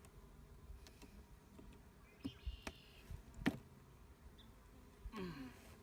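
Honeybees buzzing around an opened hive, agitated by the disturbance, with a few sharp clicks and knocks as propolis-sealed wooden frames are pried loose. The loudest knock comes about three and a half seconds in.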